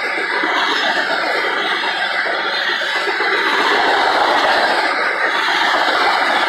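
Freight train's boxcars and tank cars rolling past at close range: steel wheels running on the rails in a steady, loud clatter and rumble.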